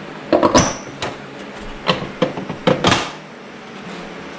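A handful of sharp clicks and knocks as an engine cover is worked loose and pulled off, about half a dozen over three seconds.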